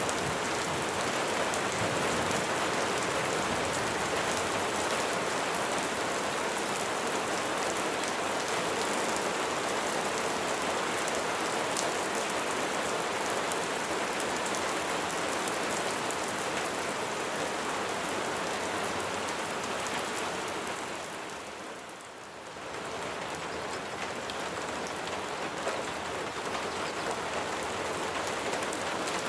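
Steady rain falling on a surface, a dense patter of drops; it dips briefly about twenty seconds in and comes back.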